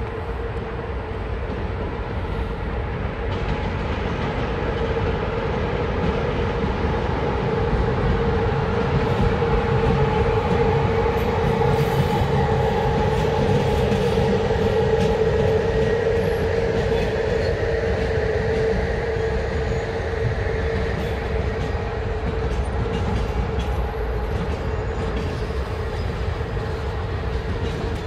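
Passenger train hauled by a CFR class 41 electric locomotive rolling slowly past, its wheels running over the rails with a steady rumble and a steady high tone on top. It grows louder toward the middle as the locomotive and then the coaches go by.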